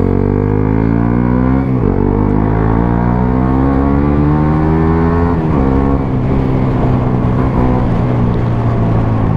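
Suzuki GSX-S 125's single-cylinder four-stroke engine through a Mivv GP Pro exhaust, accelerating hard as the bike pulls away and runs up through the gears. Its pitch climbs, drops at an upshift about two seconds in and again about five and a half seconds in, then climbs again.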